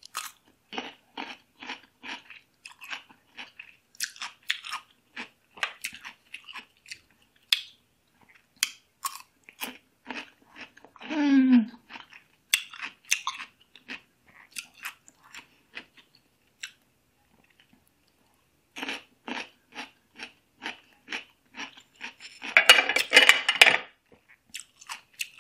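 Close-up crunching and chewing of a pickled cucumber, short crisp bites about three a second, with a pause of a few seconds past the middle. About eleven seconds in comes a short hummed moan that falls in pitch, and near the end a loud hissing breath.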